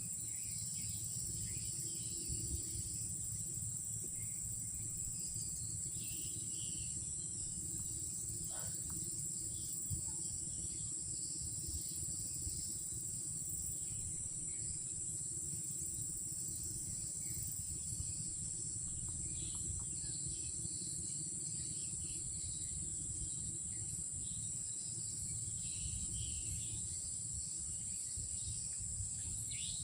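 Night insect chorus: crickets keeping up one steady high-pitched drone, over a low rumbling background noise.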